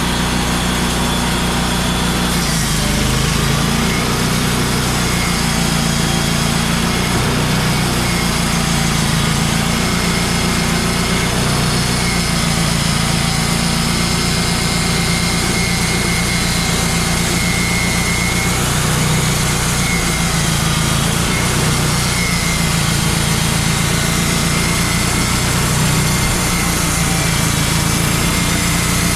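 Portable bandsaw mill's engine running steadily at a constant speed.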